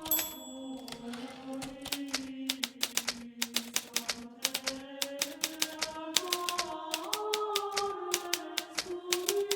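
Hermes Baby portable typewriter being typed on: runs of quick, sharp key clacks with short pauses between words. Underneath is soft background music with slowly gliding tones.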